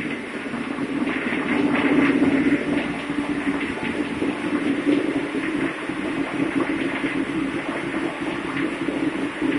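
Ship's engine-room machinery running: a loud, steady drone with a constant hum, swelling a little about two seconds in.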